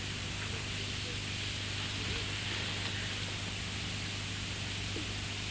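Steady hiss with a low electrical hum underneath: the background noise of an old, noisy recording during a pause in conversation.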